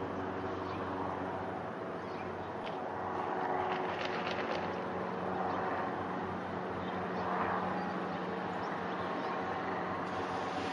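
Distant aircraft engine droning steadily, with several steady engine tones and a few faint ticks about four seconds in.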